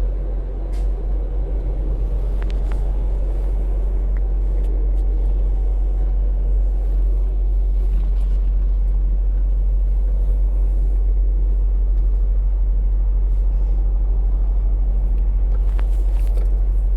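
Semi-truck diesel engine running, a steady low rumble heard from inside the cab, with a few faint clicks.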